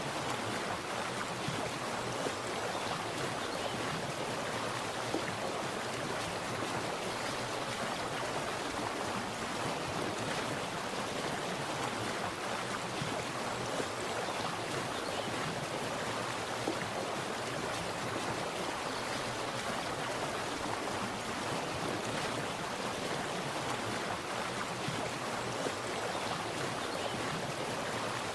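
Water splashing and burbling steadily, like a small stream or cascade, with faint crackling splashes mixed in.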